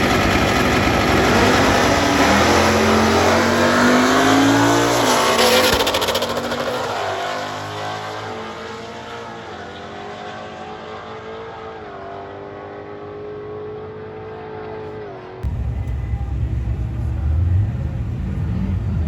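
A drag-racing car launching and accelerating hard down the strip. Its engine pitch climbs, drops at gear changes and climbs again while the sound fades into the distance. About three-quarters of the way through it cuts suddenly to a louder low engine rumble.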